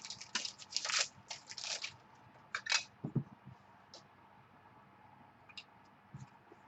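Trading cards and their plastic holders being handled on a table: a quick run of rustling slides and scrapes in the first two seconds, then a few clicks and a soft thump, and only faint scattered clicks after that.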